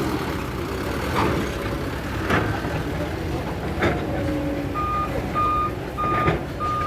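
A dump truck's engine runs steadily, with a few sharp knocks. About two-thirds of the way in, a reversing alarm starts beeping: one high beep repeating roughly every half second.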